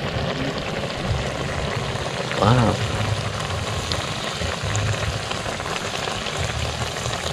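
Food frying in a pan with a steady sizzle, just after egg has been added to it. A single exclaimed word comes about two and a half seconds in.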